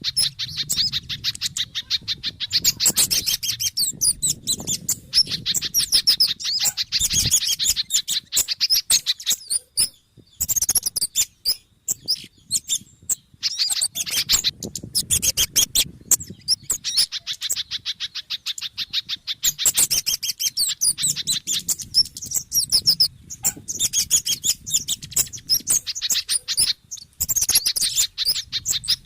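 Bird-lure recording of agitated small-bird calls mixing kemade, sogon and spiderhunter (pijantung) calls: rapid, high-pitched chirping and twittering in long runs broken by short pauses, over a faint low rumble.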